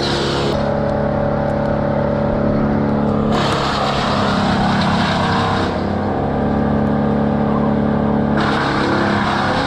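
An engine running steadily. Its sound changes abruptly about half a second, three and a half and eight and a half seconds in.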